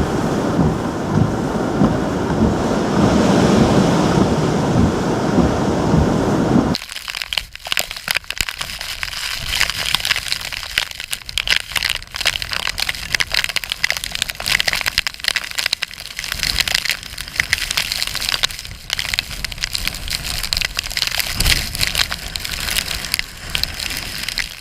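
Hurricane-force wind roaring and buffeting the microphone, then, after a sudden cut about seven seconds in, a steady crackling hiss of heavy rain and splashing water with many small ticks.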